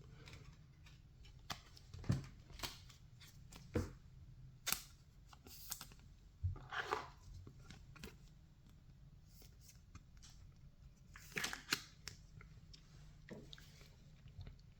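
Baseball trading cards being handled and flipped through: scattered faint clicks and card-stock rustles, with two longer scraping rustles, one about seven seconds in and one near twelve seconds.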